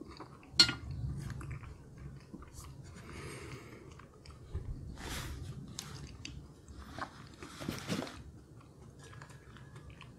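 Close-miked chewing of a mouthful of cheesy instant noodles, with a sharp tap of chopsticks against the glass dish about half a second in and a couple of short breaths through the nose later on.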